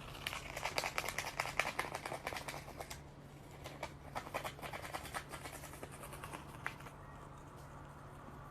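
A rapid flurry of small clicks and taps for about three seconds, thinning out to scattered ticks, over a steady low hum.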